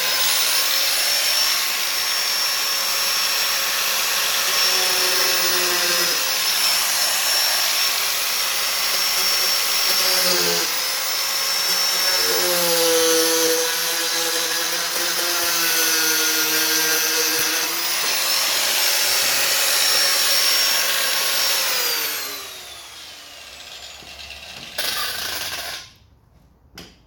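Corded electric grinder running and grinding into the front of a lawn mower, its high whine dipping in pitch at times as it is pressed into the metal. It is switched off about 22 seconds in and spins down, with one short burst again a few seconds later.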